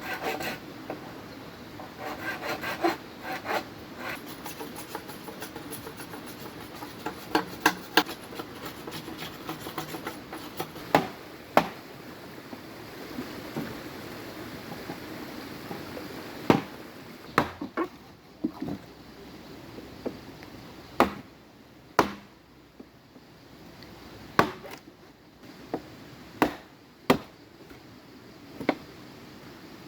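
Bamboo being worked by hand. Rough, rhythmic sawing or rasping strokes run for the first ten seconds or so. Then comes a series of sharp, separate knocks on the wood, a second or more apart.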